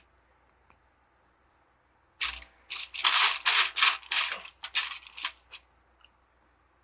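A hand rummaging through loose plastic Lego pieces: a dense run of clattering clicks, starting about two seconds in and lasting about three seconds.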